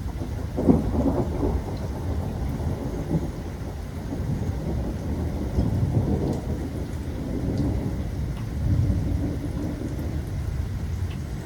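Thunder rumbling over steady rain, the rumble swelling loudest about a second in and again twice later.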